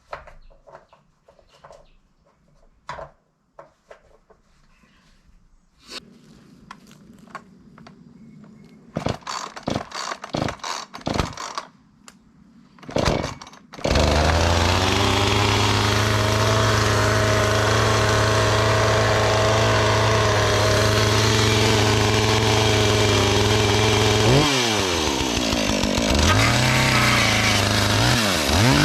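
A few knocks and clatters, then a two-stroke chainsaw catches about 14 seconds in and runs loud and steady at a high engine speed. Near the end the engine speed dips and picks up again twice.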